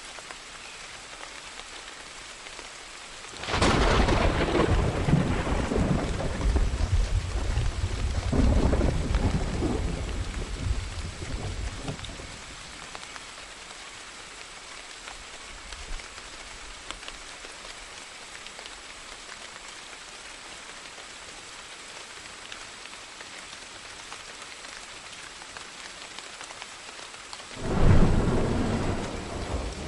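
Steady rain with two thunderclaps: a sudden crack about three seconds in that rolls on in a deep rumble for some eight seconds, and a second sharp clap near the end.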